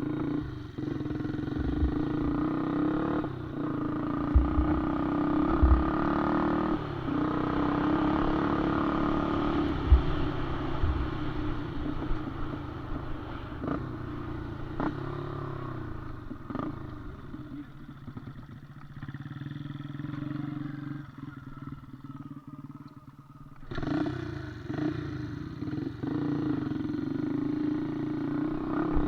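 Small motorcycle engine running under throttle, with the engine note wavering and several low thumps in the first half. It goes quieter about two-thirds of the way through, then comes back loud abruptly near the end.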